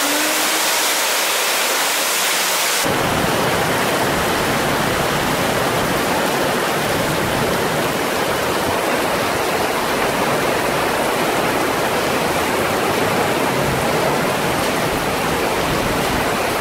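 Heavy rain mixed with a little hail pouring onto a street and pavement, a dense steady hiss. About three seconds in it suddenly becomes fuller and deeper, and passing cars swish through the flooded road.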